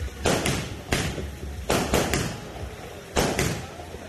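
Fireworks exploding: about eight sharp bangs at uneven intervals, several coming in quick pairs.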